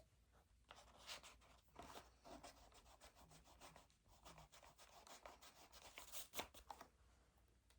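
Faint scratchy rubbing on paper at a study desk: a run of many quick short strokes lasting about six seconds, then stopping near the end.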